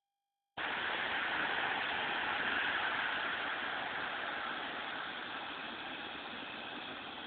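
Campfire burning with a steady hiss, without distinct crackles or pops, easing off slightly in level.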